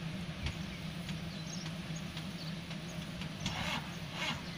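Distant diesel train at a station: a steady low engine hum, joined about three and a half seconds in by a rhythmic clatter of roughly two to three knocks a second.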